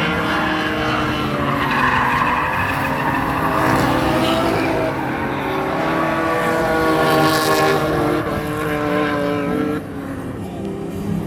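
Drift cars' engines revving hard, their pitch rising and falling as the drivers work the throttle, with tires skidding and squealing through the drift. The sound eases somewhat near the end.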